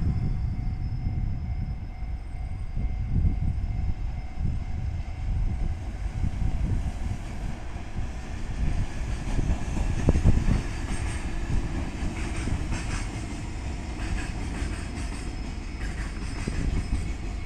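Train running past on the line, a steady low rumble with the wheels clicking rhythmically over the rail joints in the second half.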